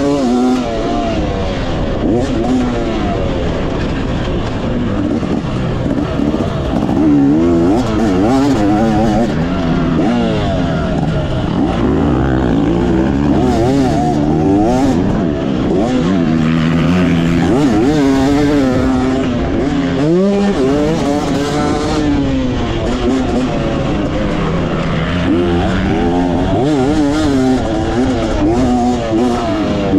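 Motocross dirt bike engine revving hard and backing off again and again, its pitch rising and falling as it runs through the gears around the track.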